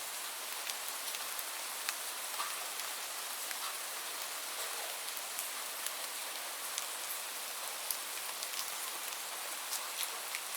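Steady rainfall: an even hiss of rain with many sharp individual drops pattering on a surface.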